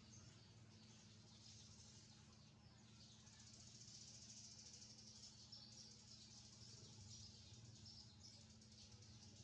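Faint, rapid high-pitched bird chirping that runs on continuously, over a steady low hum.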